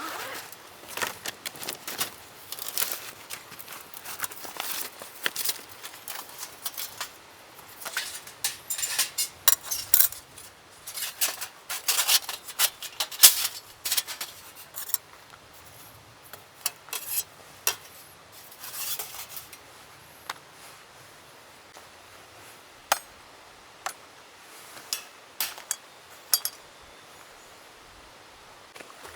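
Camping gear being handled while camp is set up: a busy run of clinks, clicks and rattles of small hard parts, thinning out to a few scattered clicks in the last third.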